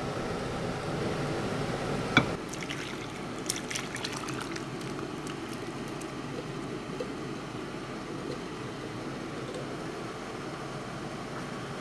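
Chicken curry in coconut milk bubbling in a pan, over the steady hiss of a cooker hood fan. A sharp click about two seconds in, after which the hiss drops a little and a run of small pops and spits follows for a couple of seconds.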